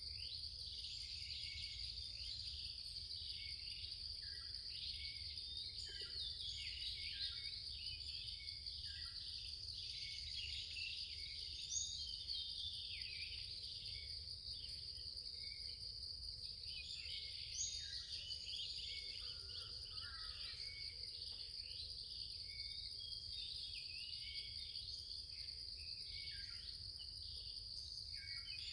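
Forest ambience: a constant high-pitched insect drone with many small birds giving short, downward-sliding chirps over it.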